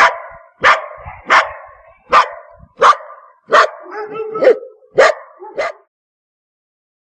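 A dog barking repeatedly, about nine sharp barks at roughly one every 0.7 seconds, stopping a little before six seconds in.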